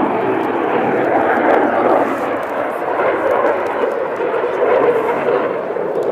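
Jet noise from a Eurofighter Typhoon's twin EJ200 turbofans: a loud, steady roar of engine noise, dipping a little and swelling again as the jet flies its display.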